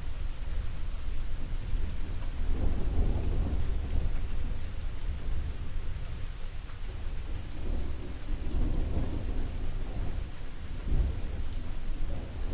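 Steady rain with low thunder rumbling underneath, swelling twice: a couple of seconds in, and again about two-thirds of the way through.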